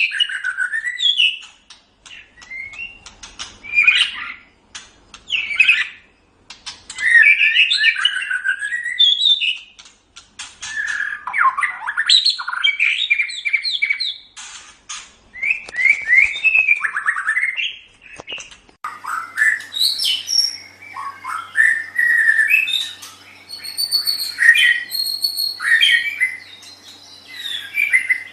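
White-rumped shama singing: a run of varied, fast whistled phrases with sweeping notes and short pauses between them. About two-thirds of the way in, a faint steady hum joins the background.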